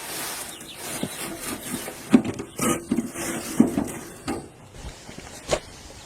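A series of irregular knocks and clatters, most of them about two to four seconds in, with one more sharp knock near the end.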